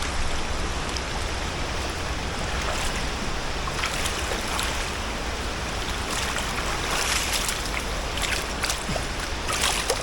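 River water flowing steadily, with a few brief splashes of water about four seconds in and several more in the last three seconds.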